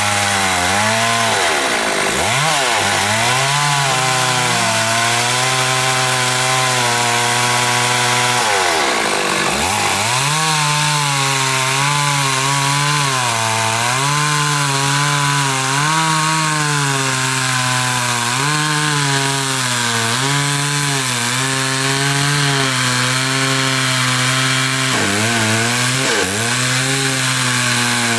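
Chainsaw running continuously under load. Its engine note wavers up and down and twice sags deeply before revving back up, about two and nine seconds in, as the chain bites into the wood.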